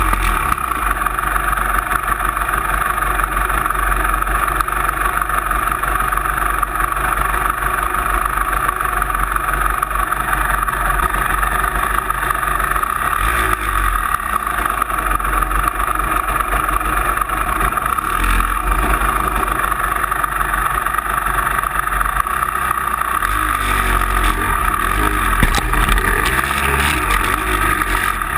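A motor vehicle's engine running steadily while driving, with brief rises and falls in revs about 13 seconds in and again near the end.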